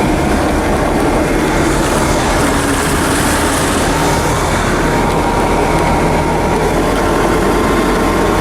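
Mercruiser 233 sterndrive V8 running steadily with the boat under way, under a constant rush of noise. The engine has just restarted after cutting out suddenly at full throttle, an intermittent fault the owners have not traced.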